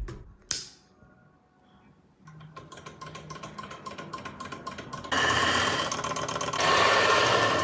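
Small homemade engine running with a fast, even clicking rattle. It starts about two seconds in and gets louder, and a loud hiss joins it about five seconds in.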